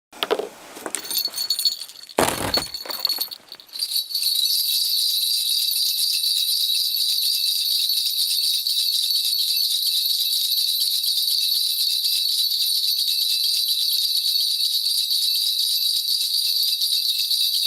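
A Korean shaman's ritual bell cluster (mudang bangul) being shaken. Uneven shakes come first, with a thump about two seconds in. From about four seconds on it is shaken fast and without a break.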